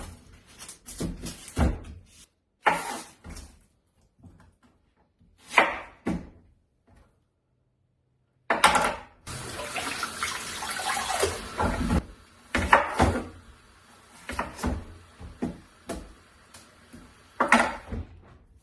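An onion being peeled and prepared by hand: scattered rustles, scrapes and small knocks of the papery skin and knife. About halfway through there is a few seconds of steady hissing, followed by more intermittent handling sounds.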